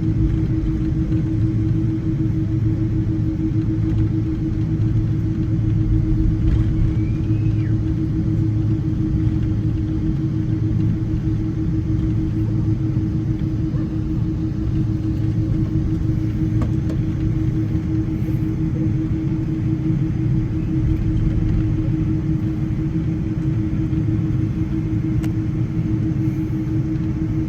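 Steady rumble inside a Boeing 777 cabin, with a constant low hum underneath that does not change.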